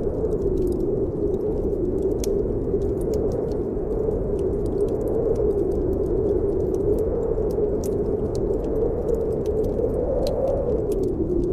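Snowstorm wind howling steadily, its hollow tone slowly wavering up and down, with a wood fire in a fireplace crackling through it in sparse, sharp pops.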